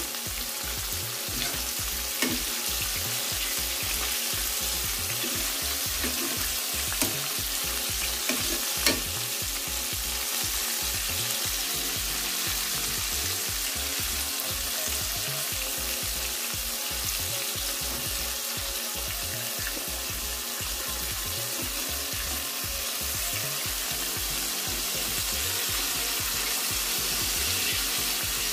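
Flour-coated chicken pieces shallow-frying in hot oil, a steady sizzle. A few sharp clicks from metal tongs against the pan in the first nine seconds as the pieces are turned, the loudest about 9 s in.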